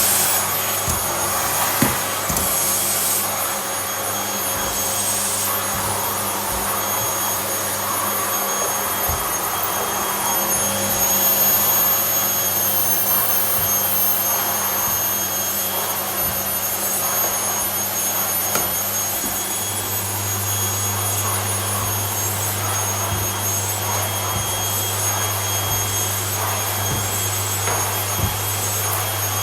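Vacuum cleaner running steadily, a constant rushing noise with a low hum and a high-pitched whine, a few light knocks over it; the low hum grows stronger about two-thirds of the way through.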